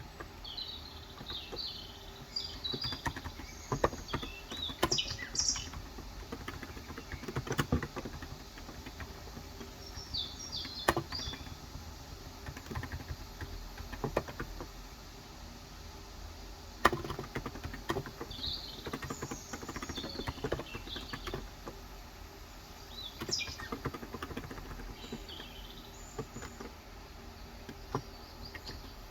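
Small birds chirping in short clusters of high chirps again and again. A few scattered single clicks, occasional keystrokes on a Cox Endeavour electrocapacitive keyboard, fall between them.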